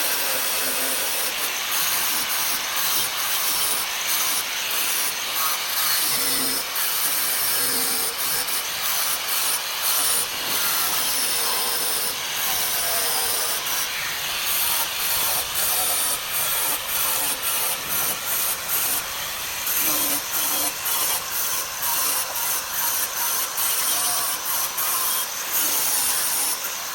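Abrasive sanding on a car body panel: continuous rubbing hiss interrupted by many short breaks.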